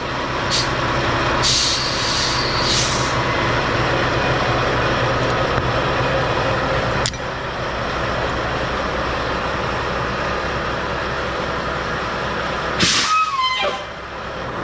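Semi-truck's diesel engine running steadily, with several short hisses of air from its air brakes in the first few seconds. A louder air hiss with a falling whistle comes near the end.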